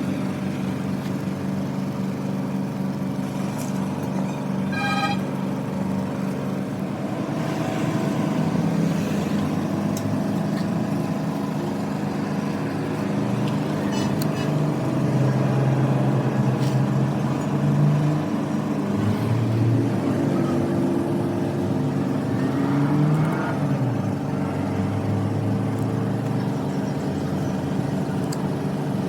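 Excavator's diesel engine running, its speed rising and falling several times. A short high-pitched beep sounds about five seconds in.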